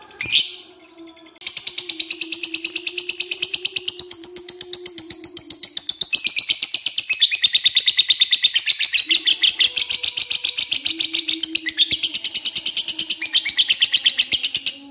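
Lovebird ngekek: a brief high call, then a long unbroken high-pitched chattering trill of rapid repeated notes that runs on until it stops abruptly at the end.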